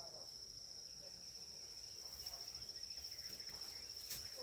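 Insect, such as a cricket, trilling: a steady, high-pitched, finely pulsing trill that does not let up. A single sharp click sounds near the end.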